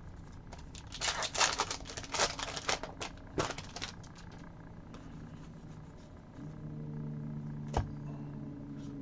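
Crinkling and quick clicking of trading card packs and cards being handled, lasting about three seconds. Later a steady low hum comes in, with one sharp click near the end.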